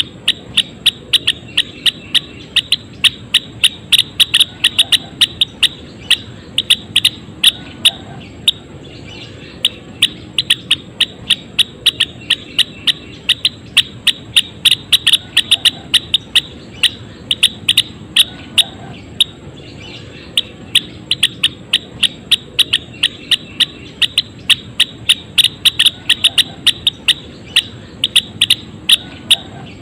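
Gelatik wingko song: rapid runs of sharp, loud chirping notes, several a second, in phrases of a few seconds broken by short pauses.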